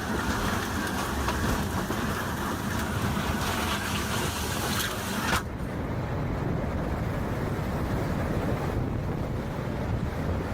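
Hurricane-force wind and rain, with wind buffeting the microphone. A bright hiss cuts off suddenly about halfway through, leaving a duller, lower rush.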